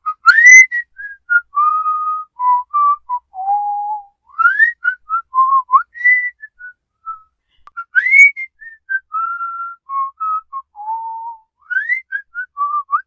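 A whistled tune, a single pure note that slides up and then steps down through short notes. The phrase repeats about every four seconds.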